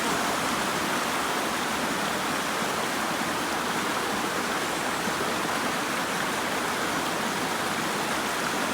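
Fast-flowing mountain creek rushing steadily over rocks.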